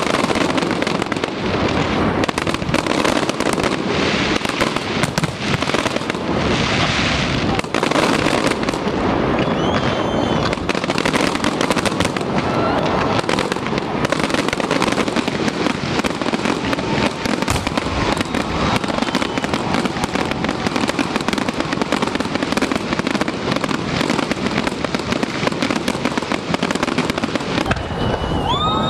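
Fireworks display going off continuously: a dense barrage of bangs and crackling, with a few faint whistles from rising shells.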